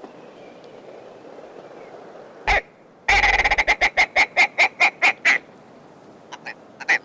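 Wild bird calling: one call, then a fast run of a dozen or so loud repeated calls, then softer spaced calls near the end, against a quiet wetland background.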